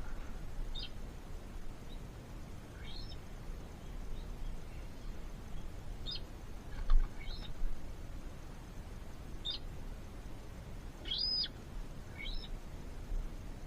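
Small birds chirping: about eight short, high, scattered notes over faint background noise, with one longer arched note about eleven seconds in. A brief low bump comes about seven seconds in.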